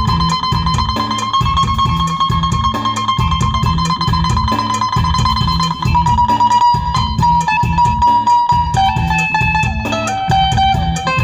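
Isan phin, the Thai plucked lute, playing a sustained, stepping melody over a steady low beat.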